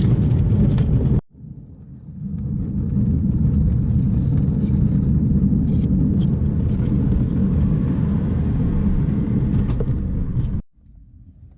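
Miniature railway train running on 7¼-inch gauge track: a steady rumble of wheels on rail, heard from inside an enclosed brake van. The rumble drops away suddenly about a second in, builds back up over the next second, and cuts off again near the end.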